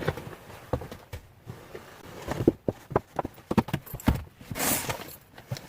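Snow shovel clearing a deck: a string of irregular knocks and scrapes from the blade, with one longer scrape about three-quarters of the way through.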